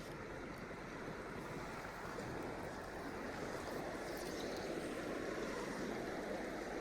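River water flowing steadily over rocks, an even rushing sound.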